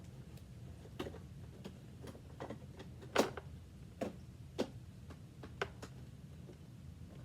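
Plastic parts of a Hoover WindTunnel 2 upright vacuum being handled and refitted: about eight irregular clicks and knocks, the loudest about three seconds in.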